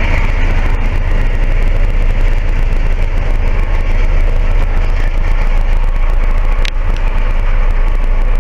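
Passenger train rolling away along the track, a steady, loud rumble of wheels on rails, with one sharp click about two-thirds of the way through.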